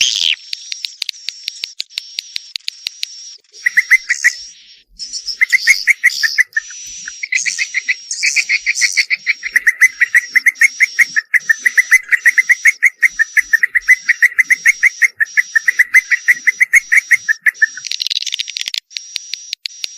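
Recorded swiftlet courtship calls: long fast trains of clicking chirps, over a thin steady high-pitched tone and scattered higher twitters.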